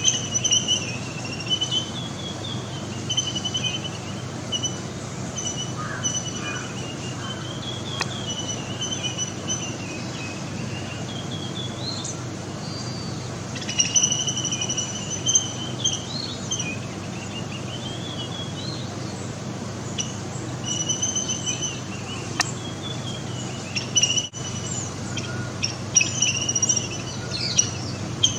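Small birds chirping and twittering in a busy, irregular chorus, over a steady low background hum, with a couple of brief clicks.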